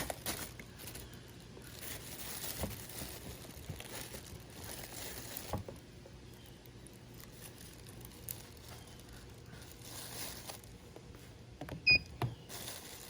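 Handling noises, rustling and small scattered clicks, over a faint steady low hum, with one short, sharp high beep near the end that is the loudest sound.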